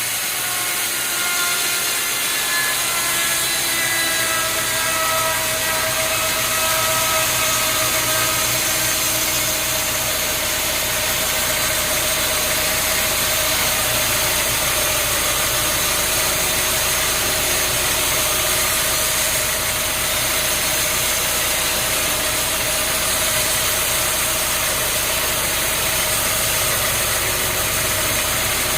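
Sawmill machinery running steadily, with an engine-like hum and a whine that drops in pitch over the first several seconds, then holds one steady tone.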